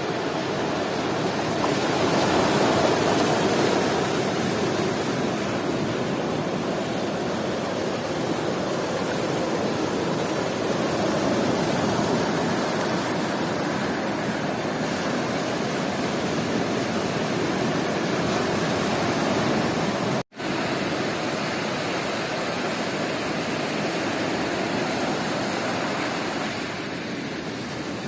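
Sea surf on a beach: a steady wash of waves with slow swells as waves break and run up. The sound briefly cuts out about twenty seconds in.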